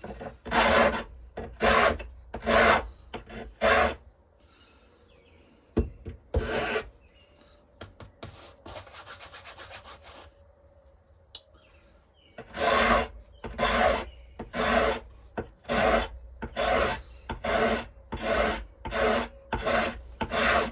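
Hand file strokes, slow and even at about one a second: four strokes, a gap broken by one stroke and a short fine rattle, then a steady run of strokes through the second half.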